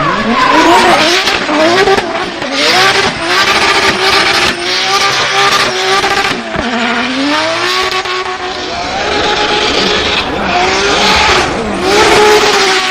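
Drift car engine revving up and down again and again over the hiss of tyres sliding and squealing.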